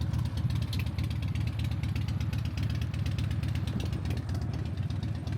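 A vehicle engine running steadily at even revs, with a low drone and rapid regular firing pulses.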